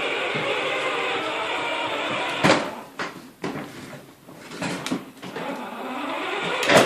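Battery-powered John Deere ride-on toy tractor driving, its electric drive whirring steadily; the whir stops about two and a half seconds in with a sharp knock, followed by softer knocks and a second loud knock near the end.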